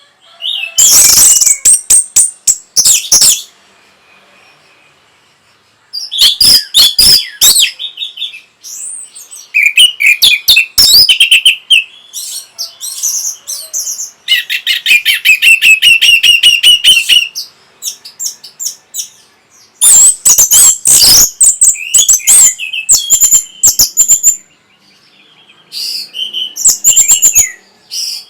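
Orange-headed thrush singing loudly in bursts of a few seconds, each a rapid run of varied whistles and trills, separated by short pauses.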